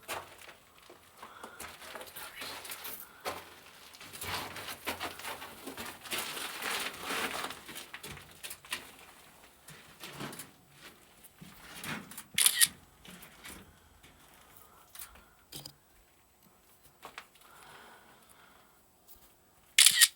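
Footsteps scuffing and crunching on loose rock inside a narrow tunnel, with rustling of clothing and gear. A sharp knock comes about twelve seconds in and another near the end.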